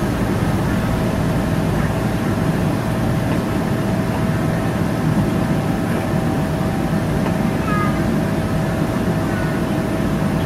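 Boeing 777-300ER jet airliner noise: a loud, steady rumble with a constant mid-pitched engine whine held throughout, and a few faint chirps near the end.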